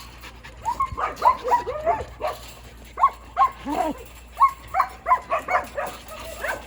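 Several shelter dogs barking, many short barks overlapping at different pitches.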